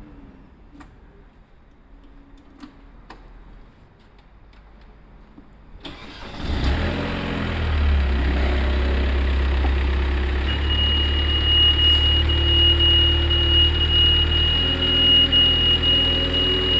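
BMW 730d's straight-six diesel engine cranking and starting about six seconds in, after a quiet stretch with a few faint clicks, then idling steadily. A steady high-pitched tone joins a few seconds after the start.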